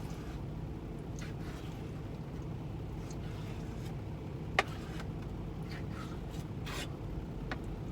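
Steady low hum of the semi truck's idling diesel engine, with faint scraping and rustling from a knife cutting a pork roast inside a plastic bag, and one sharp click about four and a half seconds in.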